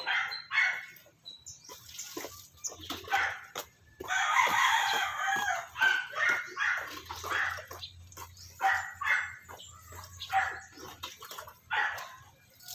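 Persian cat crying and yowling over and over while being bathed, in short irregular wails with a longer, rougher cry about four seconds in: protest at the bath.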